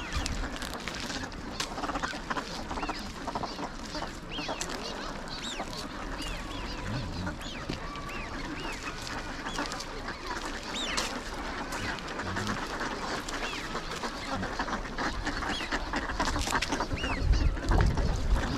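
A large flock of wild ducks on a pond calling together: many overlapping quacks and short high whistling calls, growing somewhat louder near the end.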